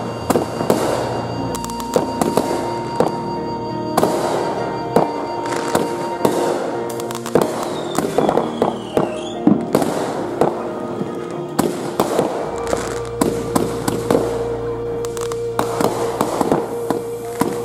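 Aerial fireworks going off in quick succession: a dense run of sharp bangs and crackles several times a second. Music with long held notes plays underneath.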